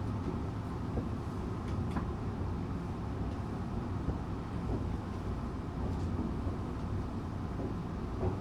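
Tokyu 8500 series electric train with Toyo-made traction motors running along the line: a steady low rumble of wheels and running gear, with a few faint clicks.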